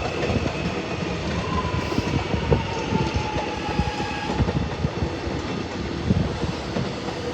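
Electric suburban train running on the rails, its wheels knocking irregularly over the track under a steady rumble, with a thin whine that drops slightly in pitch midway.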